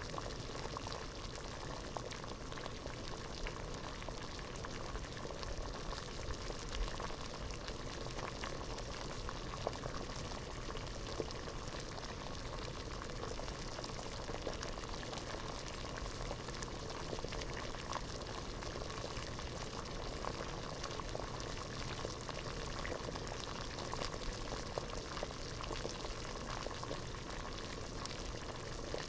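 Water boiling in a pot: steady, dense bubbling with many small pops and no change in intensity.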